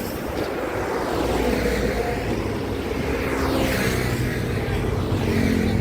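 Highway traffic with heavy trucks passing close by: a steady engine drone, with the whoosh of a vehicle going past about three and a half seconds in.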